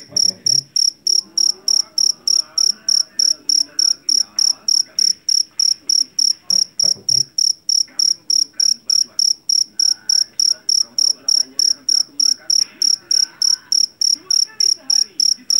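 Jeliteng (Javanese field cricket) chirping loudly and steadily, a regular train of about four shrill, pure high chirps a second.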